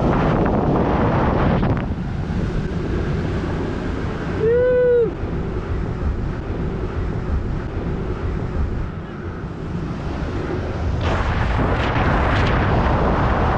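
Strong wind rushing over the microphone in flight, in gusts that swell near the start and again near the end. About four and a half seconds in there is one short tone that rises and falls.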